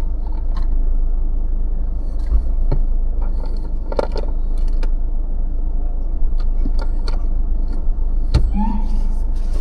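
A car driving on city streets: a steady low rumble of engine and road, with a few short clicks and light rattles along the way.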